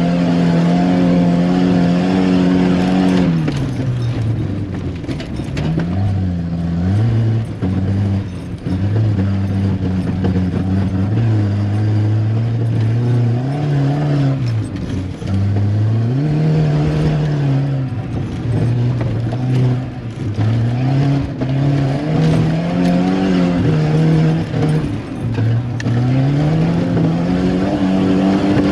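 Volvo 740 Turbo's turbocharged four-cylinder engine driven hard, its revs repeatedly climbing and dropping as the throttle is lifted and reapplied.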